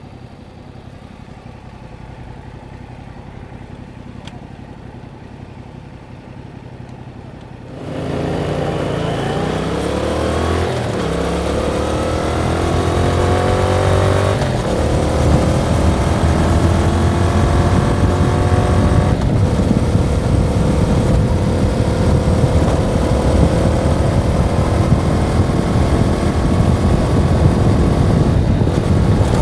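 A Yamaha MT-07's 689 cc parallel-twin engine on its stock exhaust idles quietly for about eight seconds. It then pulls away hard, its pitch rising through a couple of upshifts, and settles into a steady cruise with road and wind noise.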